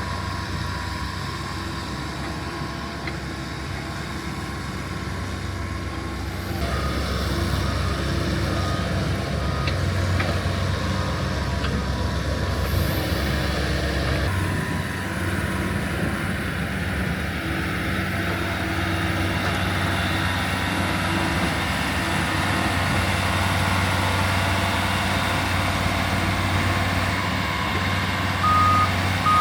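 Heavy earthmoving machine's engine running steadily, louder from about seven seconds in. Near the end a reversing alarm starts beeping.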